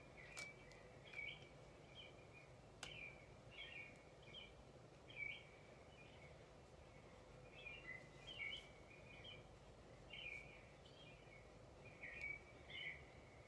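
Faint songbird chirping, short chirps coming every second or so, over a steady low background hiss. A couple of light clicks fall in the first three seconds.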